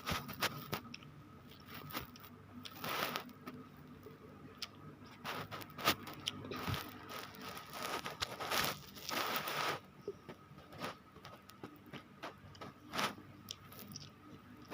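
Close-miked eating: irregular crunchy bites and chewing, with a few longer, louder crunching bursts spread through.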